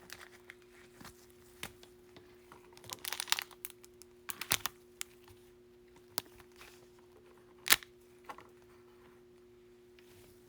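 A Bowman baseball card pack's wrapper being torn open and crinkled, in scattered short bursts of crinkling with a few sharp clicks, the loudest about three-quarters of the way through. A faint steady hum sits underneath.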